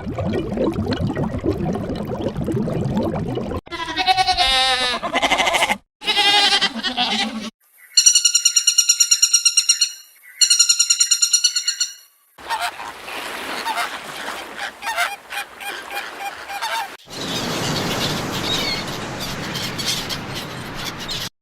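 A series of different animal calls cut one after another, some pitched and wavering, two of them rapidly pulsed and high, others rough and noisy.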